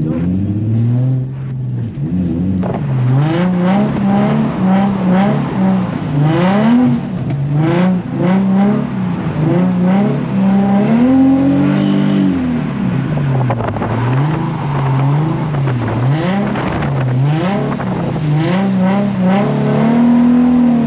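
Infiniti G35 coupe's V6 engine, heard from on board while drifting, revving hard up and down over and over as the throttle is worked.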